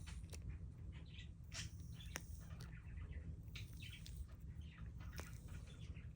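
Silicone mold being flexed and peeled off cured resin, crunching and crackling with a few sharp snaps, while birds chirp in the background.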